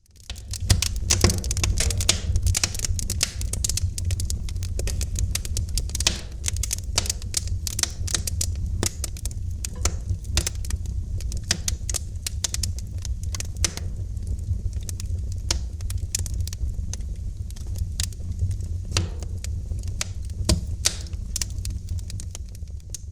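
Wood fire crackling in a fireplace: dense, irregular sharp pops and snaps over a steady low rumble of the flames. The sound fades in at the start.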